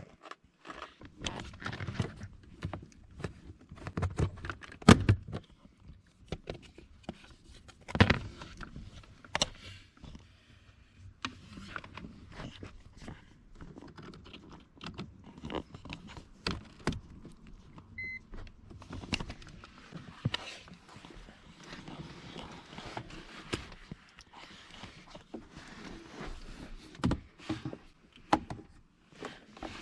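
Handling of a handheld car diagnostic scan tool and its cable: irregular clicks, knocks and rattles, with one short electronic beep about eighteen seconds in.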